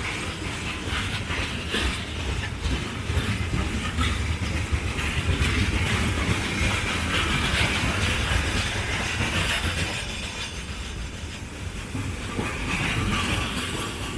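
Freight train wagons rolling past, wheels clattering over the rail joints with a steady low rumble; the sound eases off about ten seconds in.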